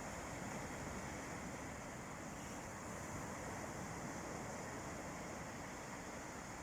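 Sea waves washing onto a beach, heard as a steady wash of surf with no single wave breaking out.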